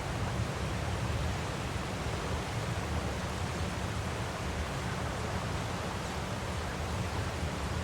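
Waterfall: a steady, unbroken rush of falling water, deepest and heaviest in the low range.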